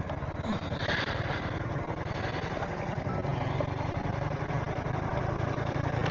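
70cc single-cylinder motorcycle engine running steadily at low revs.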